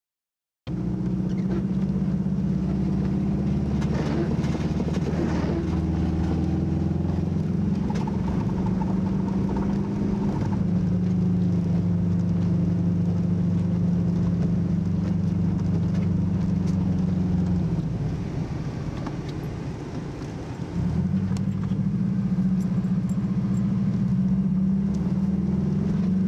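Car engine running steadily, heard from inside the cabin while driving: a constant drone that eases off for a few seconds past the middle, then picks back up.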